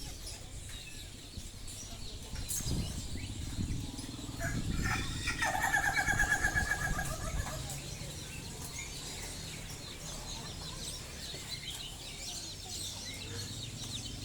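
A rooster crows once, a long pulsing call about five seconds in that is the loudest sound, over small birds chirping throughout.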